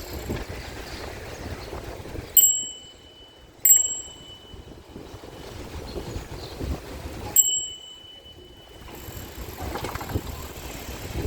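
Bicycle bell dinged three times, each strike ringing on for a second or so, over a steady rumble of street traffic and wind.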